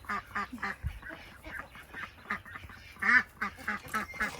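Mother duck quacking in a quick run of short, repeated calls, with one louder call about three seconds in.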